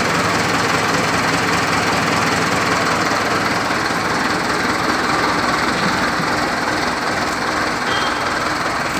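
Mahindra Arjun tractor's diesel engine running steadily.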